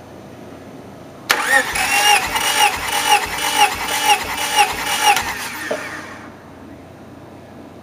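Starter motor cranking a Honda B18B 1.8-litre four-cylinder engine for a compression test: a whining crank that swells and dips evenly about three times a second for about four seconds, then winds down.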